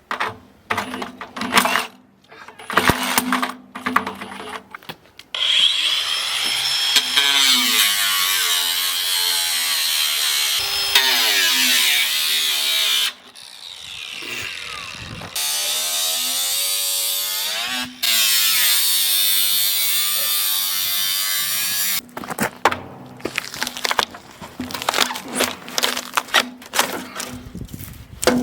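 Power tool cutting into the steel shell of a water heater tank. In long loud runs its motor pitch sags and recovers under load, with a short easing off partway through. Irregular scraping and knocking strokes come before and after the main cut.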